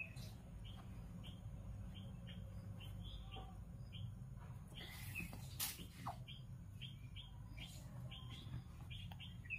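Faint chirping of small birds: short calls repeating about twice a second over a low steady hum, with a couple of soft clicks near the middle.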